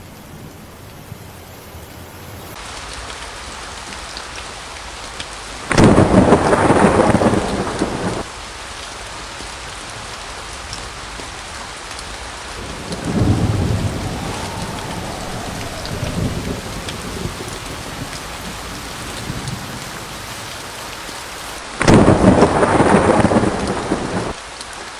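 Steady rain falling, with three peals of thunder: sudden loud cracks about six seconds in and again near the end, each lasting a couple of seconds, and a lower rolling rumble in between.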